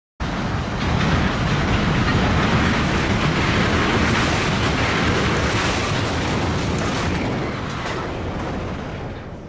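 A train passing close by, loud and steady. It cuts in suddenly just after the start and fades away near the end.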